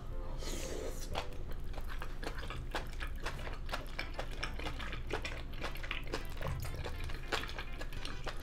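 Close-up chewing of chewy grilled pork large intestine (makchang): wet, irregular mouth clicks and squelches, many a second.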